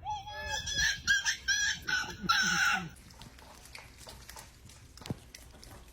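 A bird gives a quick run of short pitched calls, about seven of them, which stop about three seconds in.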